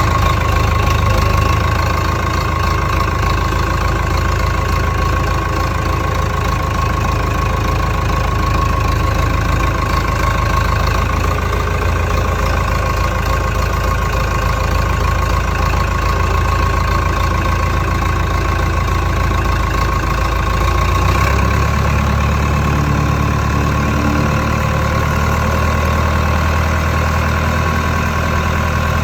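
Massey-Ferguson 188's Perkins 4.248 four-cylinder diesel engine running steadily at idle. Its low note shifts about three quarters of the way through.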